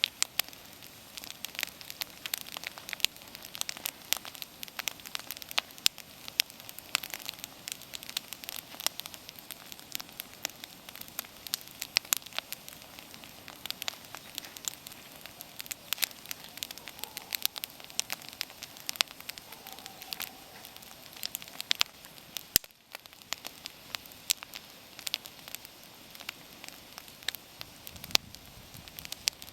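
Wood campfire burning, with frequent irregular sharp crackles and pops over a steady hiss.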